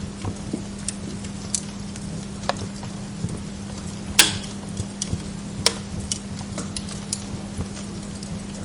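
Wood log fire crackling in a fireplace, with scattered irregular pops; the loudest sharp pop comes about four seconds in and another shortly after. A steady low hum runs underneath.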